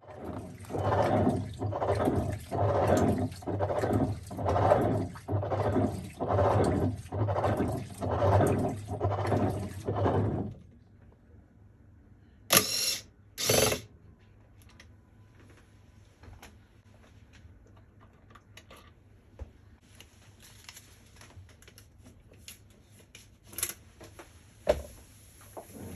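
Hitachi BeatWash top-loading washing machine running with a rhythmic mechanical noise, about one pulse a second over a low motor hum, for about ten seconds. This is the abnormal noise of a failing drive assembly. Two short loud bursts of noise follow shortly after it stops.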